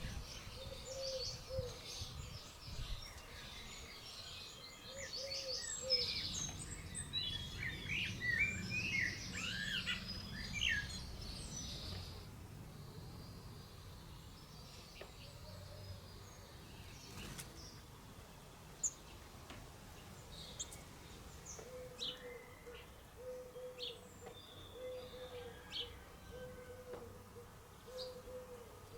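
Garden birds calling: songbirds chirping and warbling busily for the first dozen seconds, then only scattered chirps. Low, cooing notes repeat about once a second near the start and again near the end.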